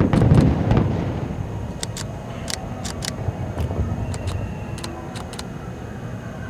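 A fireworks display: a shell bursts with a deep boom right at the start that rumbles for about a second, followed by scattered sharp crackles and pops.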